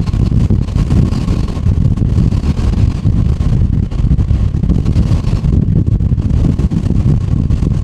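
Strong wind buffeting the microphone: a loud, gusty low rumble that never lets up. A faint steady tone from an airliner's jet engine sits underneath, largely drowned out by the wind.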